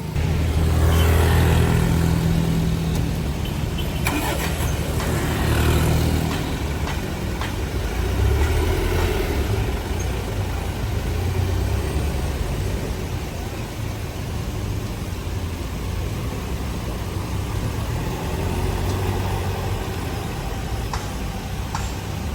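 Motor vehicle engines running, swelling in revs several times and easing back in between.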